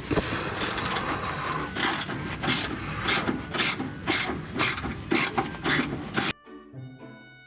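Ratchet wrench clicking in short repeated strokes, about two a second, while working the bolts of a front stabilizer-bar bushing bracket. About six seconds in, it cuts off abruptly to light chiming background music.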